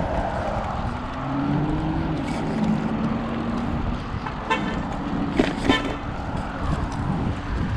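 Road traffic with a car horn tooting briefly twice about halfway through, over steady engine, tyre and wind noise.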